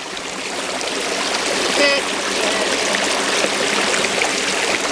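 Stream water rushing over rocks in a small cascade, a steady rush that grows louder over the first two seconds.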